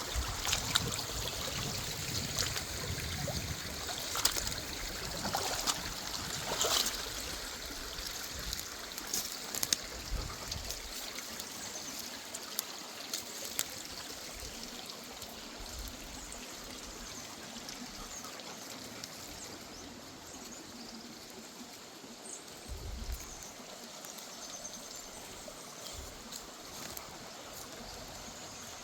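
Woodland river running and trickling steadily, with scattered sharp clicks during roughly the first third.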